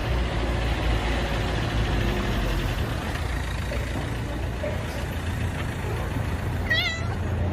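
Steady low rumble of a running vehicle's engine and road noise, with a brief high-pitched cry near the end.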